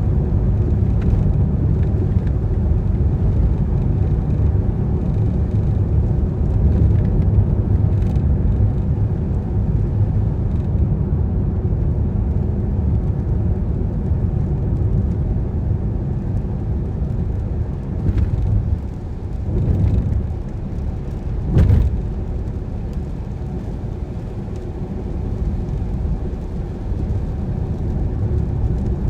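A car driving on rain-wet roads: a steady low rumble of road and engine noise. It eases off somewhat in the last third, with a short louder swell about three-quarters of the way through.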